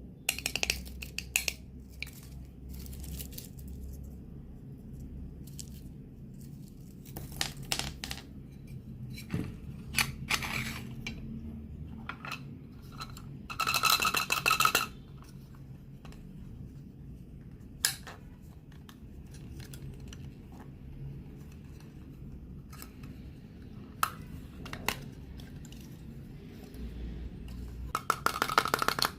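Candy packaging being handled and unwrapped: scattered sharp clicks and taps of plastic, with two longer bursts of crinkling and tearing, one about halfway through and one near the end.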